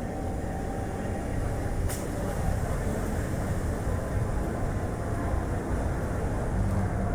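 Steady road and wind noise from a moving Chevrolet Spark light car: an even low rumble of tyres and wind, with a single sharp click about two seconds in.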